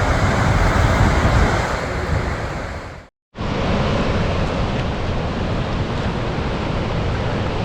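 Steady rush of Gullfoss, the waterfall on the Hvítá river, with wind buffeting the microphone. The sound drops out for a moment about three seconds in, then resumes.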